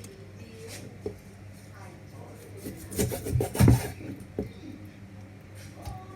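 Kitchen knife cutting raw chicken wings at the joints on a cutting board: rubbing and scraping of the blade, with a cluster of knocks on the board about three to four seconds in.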